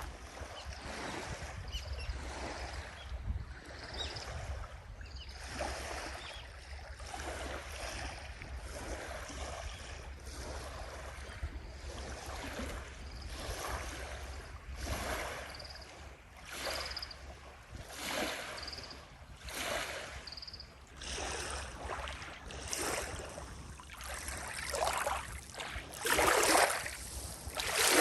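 Strong gusty wind rushing in irregular swells a second or two apart, loudest near the end, with a low rumble of wind on the microphone.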